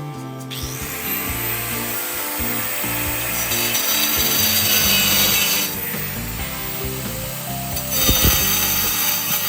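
A power tool running under load, louder about three and a half to five and a half seconds in and again near the end, over background music.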